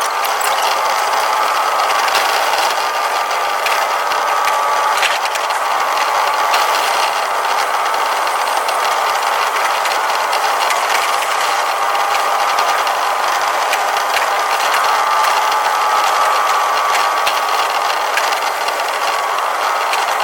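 Tokyu 5050 series 4000 electric train running at speed, heard from the cab: a steady rattle and rumble with a whine that drifts slightly in pitch, and occasional clicks. The audio is sped up to double speed.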